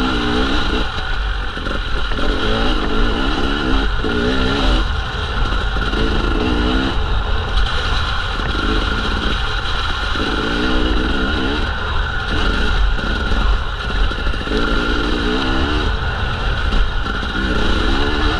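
Enduro dirt bike's engine running under the rider, its revs rising and falling in short bursts of throttle over rough ground.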